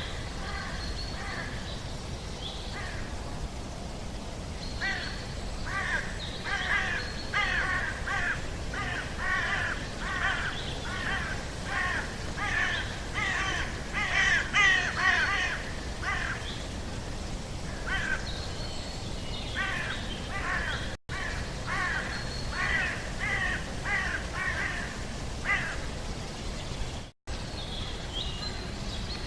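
Birds calling in rapid series of short repeated calls, several a second, loudest about halfway through, then a brief lull before another run. A steady low background noise lies underneath, and the sound cuts out for a moment twice.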